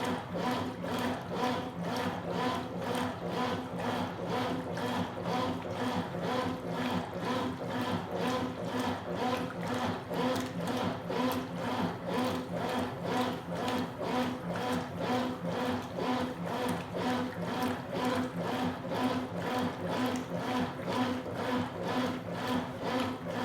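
Consul Super Cargo 8 kg top-loading washing machine agitating a load of towels in water: the motor hums steadily under a regular churning beat of about two strokes a second.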